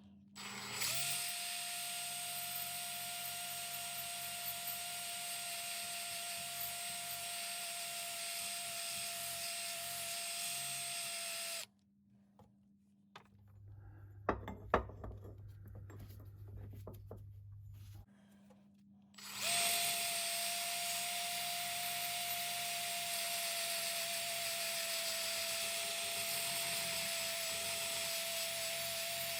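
A hand-held electric power tool of the drill type runs at a steady speed with a constant high whine, stops about twelve seconds in, and then starts again after a few seconds. In the pause there are a few sharp knocks and handling sounds.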